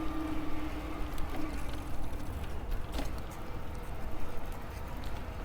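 E-bike riding uphill on motor assist: the electric motor's steady whine fades out about a second and a half in, leaving the low rumble of the ride, with one sharp click about three seconds in.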